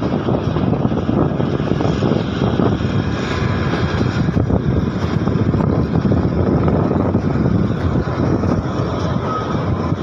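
Narrow-gauge train running, a steady loud rumble of the coach and wheels on the track.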